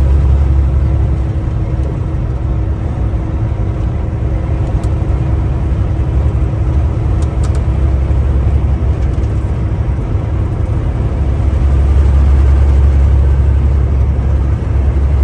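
Semi truck's diesel engine running: a steady low rumble with a faint constant hum above it, swelling slightly near the end.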